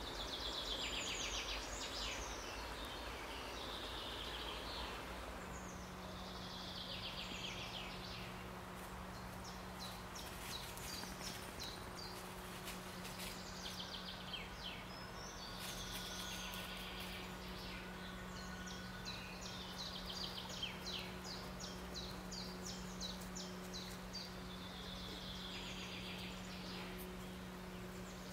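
A songbird singing a short trilled phrase of about two seconds, repeated every four to five seconds, with faint chirps from other birds, over a steady rush of noise. A low steady hum comes in about five seconds in.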